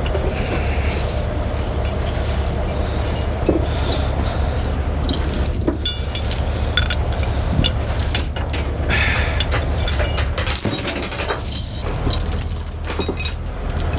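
Steel tie-down chains and a shackle clinking and rattling as they are handled, with a run of sharp metallic clinks from about five seconds in over a steady low rumble.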